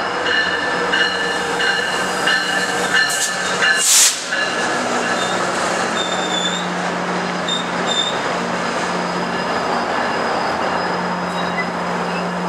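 GO Transit commuter train (diesel locomotive and bi-level coaches) rolling slowly past as it pulls into the station, with a steady rumble and high squeals coming and going from the wheels and brakes. A short loud burst of noise stands out about four seconds in.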